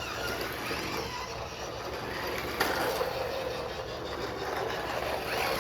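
Toy RC cars driving, their small electric motors and wheels running in a steady noisy hum, with a single sharp knock about two and a half seconds in.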